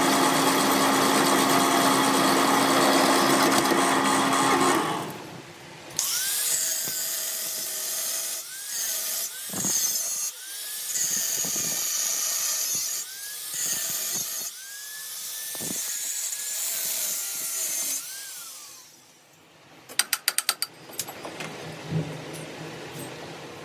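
Power tool running steadily with a low hum, stopping about five seconds in. Then come shorter runs of tool noise with a whine that rises and falls, and a quick series of clicks near the end.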